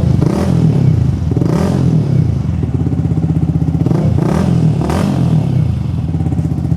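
Yamaha M-Slaz's single-cylinder engine running at idle through an aftermarket Akrapovic-style slip-on exhaust, revved in about four short blips.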